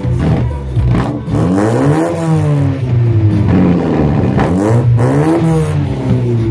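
Turbocharged Daewoo LeMans engine revved up and let fall about twice, its exhaust giving sharp pops as it shoots flames.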